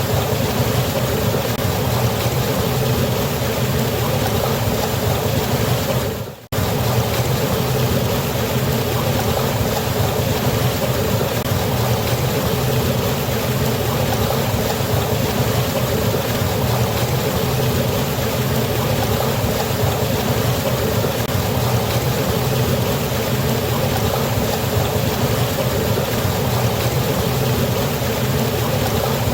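Steady rush of a waterfall, a dense unbroken wash of falling water. About six seconds in it fades down briefly and cuts straight back in.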